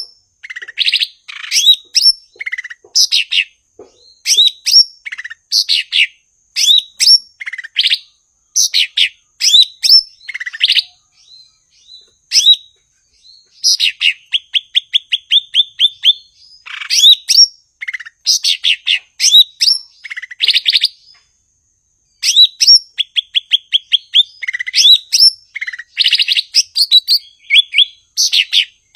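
Cucak ijo (green leafbird) singing in full song: a fast, varied run of loud whistled phrases and chirps, twice breaking into a rapid trill of evenly repeated notes, with a brief pause near the middle.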